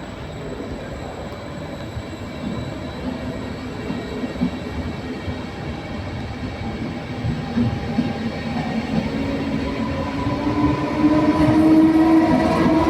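A train running at a station, growing steadily louder, with a whine that rises in pitch over the last few seconds.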